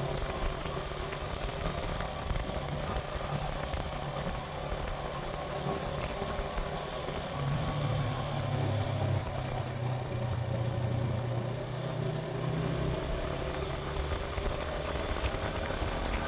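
Suzuki GN125's single-cylinder four-stroke engine running as the motorcycle is ridden, over a steady rushing noise. The engine note grows louder for about five seconds in the middle.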